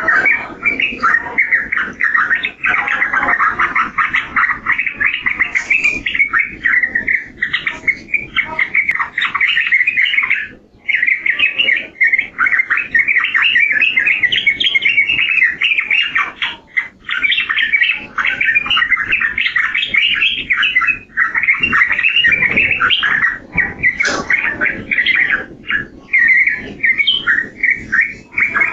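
Yellow-vented bulbul (trucukan) singing a fast, near-continuous run of short notes, with brief pauses about eleven and eighteen seconds in.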